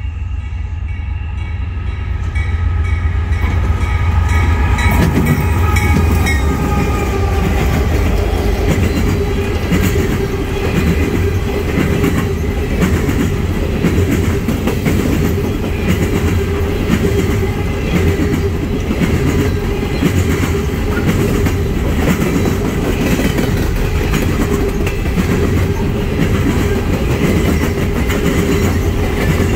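A Norfolk Southern diesel-hauled coal train passing close by: the locomotive horn sounds over the first several seconds, its pitch dropping as the locomotive goes by. Then the coal hopper cars roll past with a steady loud rumble and clickety-clack of wheels on the rails, with a steady whine under it.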